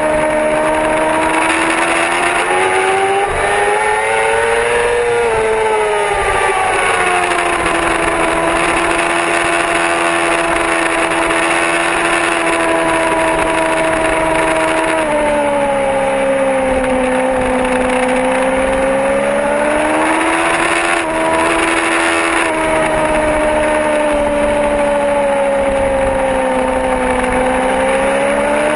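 Yamaha R6 inline-four sport-bike engine under way at track speed, its note climbing and falling several times with long stretches held steady, over a constant rush of wind and wet-track noise.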